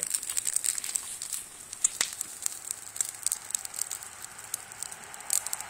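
Wood campfire crackling and popping in irregular snaps, with one sharper pop about two seconds in.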